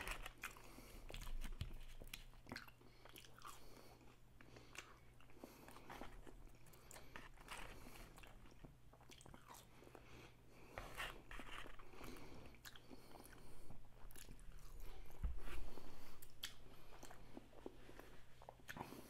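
A person chewing and crunching fast-food French fries, close to the microphone: irregular soft crunches and mouth clicks, louder in the second half.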